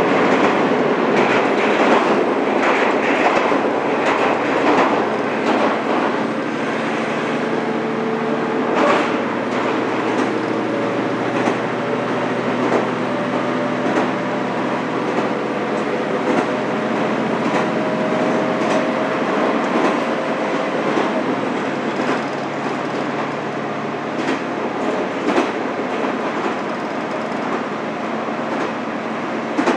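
Heard from inside a diesel railcar running at speed: a steady rumble of wheels on rail with scattered clicks over rail joints, a low engine drone that stops about two-thirds of the way through, and a faint whine that slowly rises in pitch.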